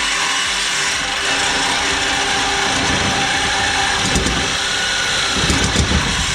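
Handheld power tool starting up and running continuously at full speed for several seconds, loud and steady, with some rough low-end pulsing near the end.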